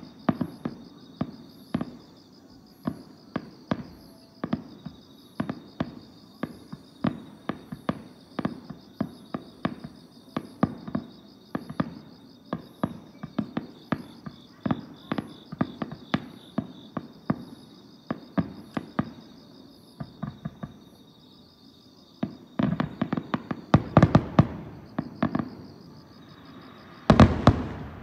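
Distant aerial fireworks shells bursting in quick succession: a steady string of bangs, a dense volley about 23 seconds in, and a last heavy burst near the end. Insects trill steadily underneath.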